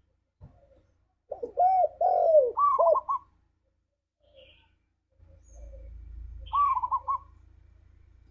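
Spotted dove cooing: a phrase of several arched coos starting about a second in, rising to higher notes at its end, then a shorter quick run of coos near the end. A faint low hum sits under the later part.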